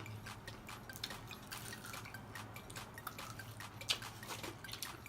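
Close-up eating of fried chicken: many small, irregular wet mouth clicks and smacks of chewing, with one louder click near the end, over a low steady hum.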